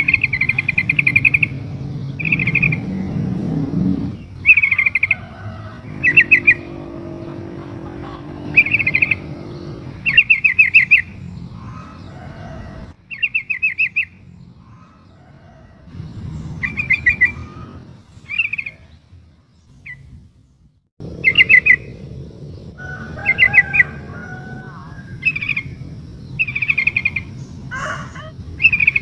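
Female yellow-vented bulbul (trucukan) calling to attract a male: short bursts of quick chattering notes, repeated every second or two, with a couple of brief pauses, over a steady low background rumble.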